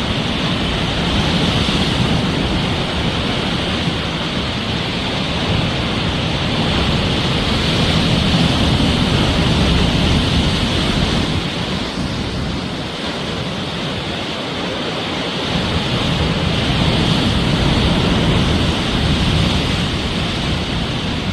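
Sea waves surging and breaking on the shore, a continuous wash of surf that swells and eases in slow surges every several seconds.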